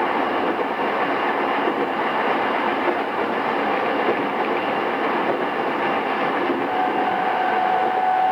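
Running sound inside a JR East E217 series electric train's motor car, recorded on cassette tape: steady rolling noise of the train under way. A steady whine comes in near the end as the sound grows slightly louder.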